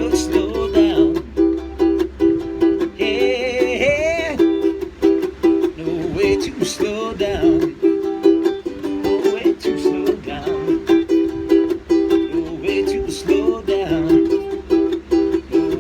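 Ukulele playing an instrumental passage: a fast, repeating riff over plucked and strummed chords, with a brief wavering higher melodic line about three seconds in.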